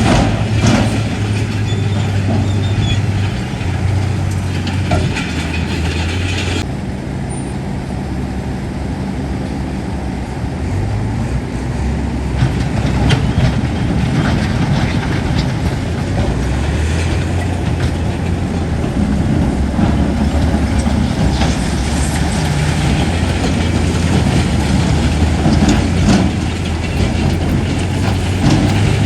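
Heavy diesel earthmoving machinery, a bulldozer, running with a steady low engine hum and scattered metallic clanks and rattles from its tracks and blade. The sound changes abruptly about six and a half seconds in.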